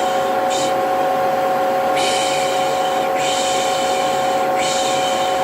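Vacuum cleaner running steadily with a constant motor whine, overlaid by about four hushing 'shh' sounds, one short and three longer, the soothing shush used to calm a baby.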